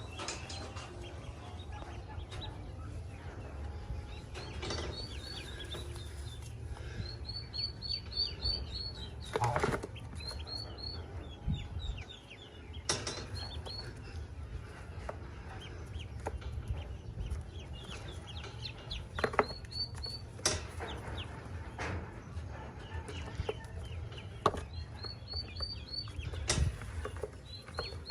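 Ducklings peeping in quick runs of short, high notes, with a few sharp knocks now and then over a low steady hum.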